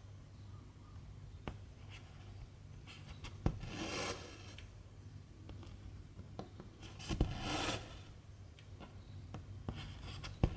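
Cross-stitching: silk thread drawn through stretched 11-count fabric with a rough swish every three to four seconds. Sharp ticks fall between the pulls.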